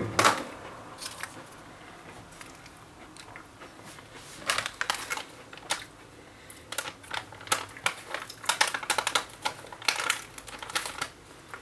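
Crunchy Ovomaltine chocolate biscuits being chewed: irregular crisp crunching clicks in short spells, mostly in the second half.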